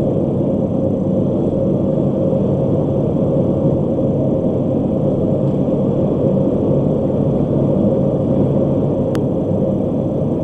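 Steady road and engine rumble inside a vehicle cabin cruising at highway speed, with a constant drone. There is one brief click near the end.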